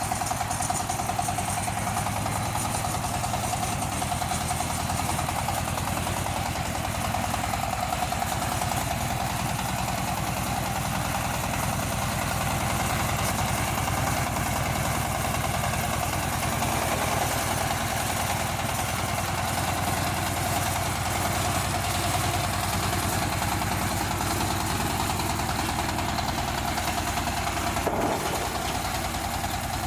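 Engine of a crawler mini tractor cultivator running steadily at an even speed.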